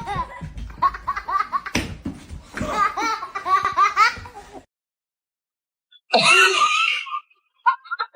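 People laughing in quick, pitched bursts that break off about four and a half seconds in. After a short silence, a brief high-pitched cry comes about six seconds in.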